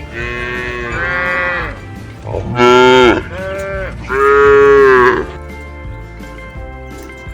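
Cows mooing: a run of several long, drawn-out calls, the loudest two around the middle, then the calls stop.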